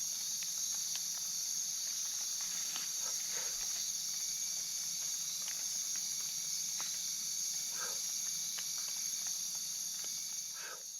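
Night rainforest insect chorus: a steady, high-pitched trilling of crickets and other insects, with faint scattered ticks and a few soft rustles.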